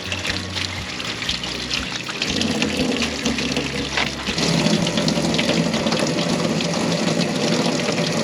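Water running from a tap, with the flow getting louder a few seconds in, as shrimp are rinsed for cleaning.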